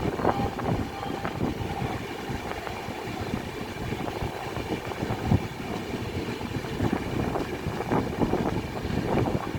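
A train running on the track: a steady rumble and rattle of wheels on rails, broken by irregular knocks over the rail joints, the sharpest about five seconds in.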